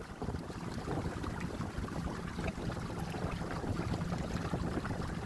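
Kayak under way with an ePropulsion Spirit 1.0 Plus electric outboard: a steady low motor hum under rushing water and wind on the microphone.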